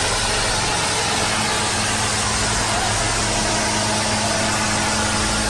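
Tractor engine running steadily under a dense, even rush of noise.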